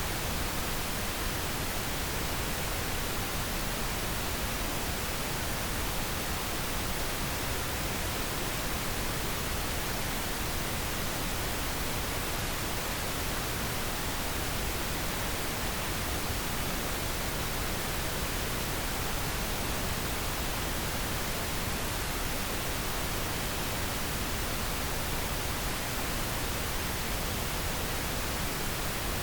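Steady pink noise: an even, unchanging hiss spread across the whole range, used as a sleep aid.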